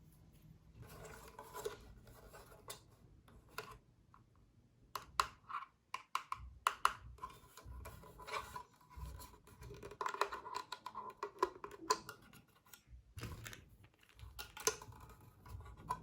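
Handling noise: irregular scratching and rubbing with scattered sharp clicks, the loudest clicks bunched together about five to seven seconds in.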